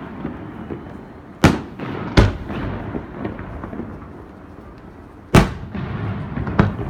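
Aerial firework shells bursting in the sky: four sharp bangs, two close together near the start and two more near the end, each trailing off in a rumbling echo.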